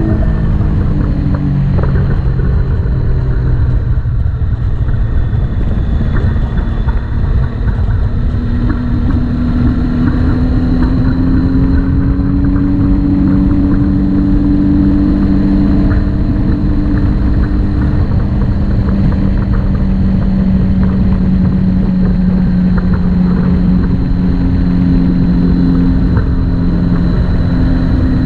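Motorcycle engine running under way, with heavy wind rumble on the microphone. The engine pitch drops in the first couple of seconds, climbs again from about eight to twelve seconds in, then holds fairly steady.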